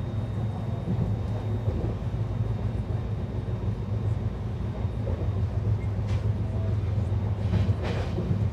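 Shatabdi Express train running at speed, heard from inside the passenger coach: a steady low rumble of wheels on rail, with a few brief sharper clacks near the end.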